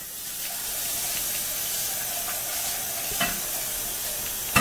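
Food frying in a pan on the stove: a steady sizzling hiss, with a light knock about three seconds in and another at the end.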